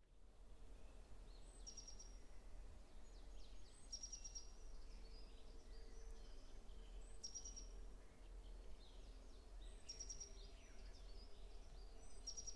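Faint woodland ambience with a bird singing a short high phrase, repeated five times about every two to three seconds.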